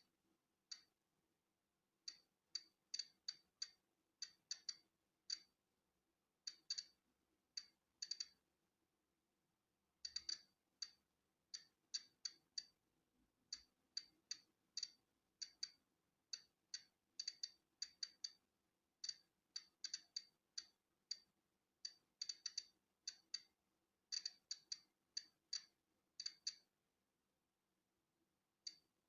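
Polon EKO-C digital Geiger counter clicking at random intervals, each short sharp click marking one detected particle of natural background radiation. The clicks come at about two a second on average, sometimes in quick bunches, with pauses of up to two seconds, one near the end.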